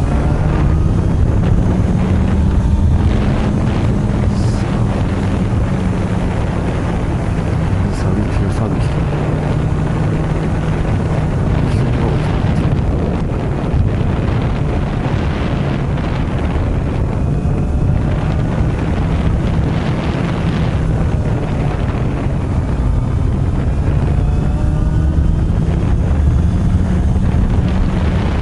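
Honda CB400 Super Bol d'Or's inline-four engine running through an r's gear aftermarket exhaust while the bike is ridden, its revs rising and easing gently, with wind noise on the microphone.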